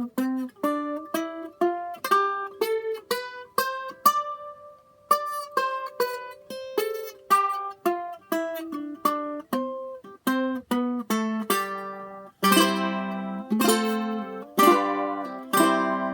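Eight-string tenor ukulele played: a melody of single picked notes, two or three a second, changing to strummed chords about three-quarters of the way through.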